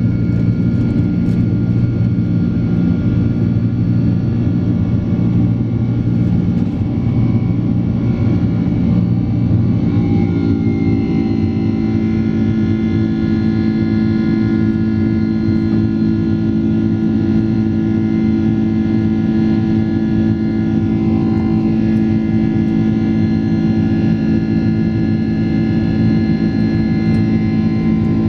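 Loud, steady jet engine noise of a Boeing 767-400ER as heard inside the cabin. About ten seconds in, the engine tones step up in pitch and then hold steady.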